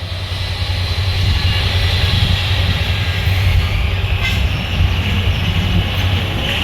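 Train running on the line: a steady low rumble with a faint high ringing tone above it, slowly growing louder.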